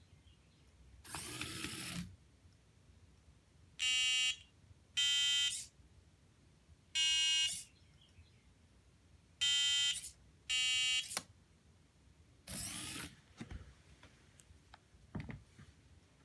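Small servo motor on a LEGO forklift whirring briefly as it moves the forks to a new position, twice, with five short electronic beeps at a few different pitches in between, the tones of piano keys 1-6 that set the servo's positions.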